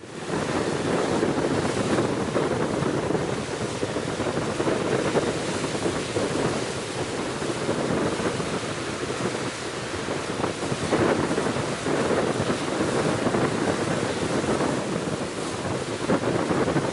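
Gale-force wind buffeting the microphone over the steady rush of sea surf, surging and easing every few seconds.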